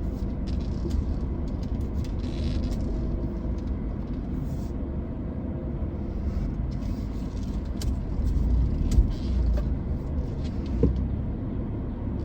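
Steady low rumble with a few faint clicks and a single louder knock about nine seconds in.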